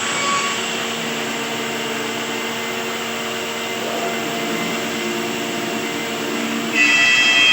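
A woodworking power tool running steadily with a hum and a rushing noise. Near the end it gets louder and a higher whine comes in.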